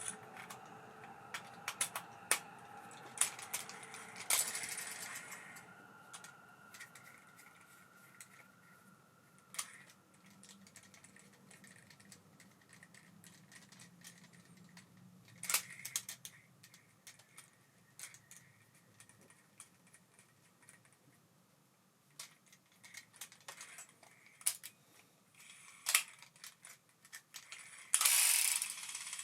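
Abu Garcia Ambassadeur 5500C baitcasting reel being worked by hand. A steady whine fades out over the first several seconds, followed by scattered clicks of its gears and pawl, with a short louder rattle near the end.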